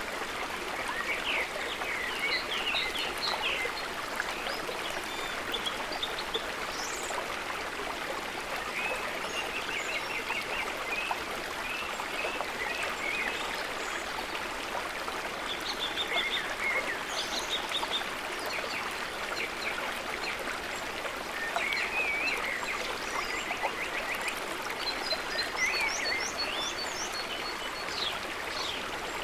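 River water rushing and trickling in a steady wash. Runs of short, quick chirping calls come and go over it throughout, with a burst of higher quick notes near the end.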